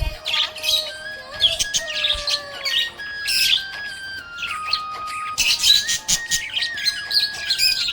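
Budgerigar chirping and warbling in quick, busy bursts over background music playing a simple melody of held notes.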